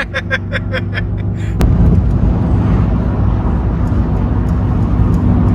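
Mercedes-AMG GT C's V8 accelerating hard, heard from inside the cabin. In the first second and a half there is a quick series of sharp pops over the engine; then a click, and the engine, road and wind noise become a steady, loud rush.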